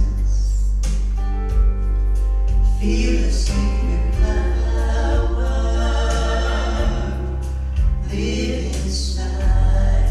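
A gospel vocal group singing in harmony with instrumental accompaniment, holding long notes over a steady bass line and beat.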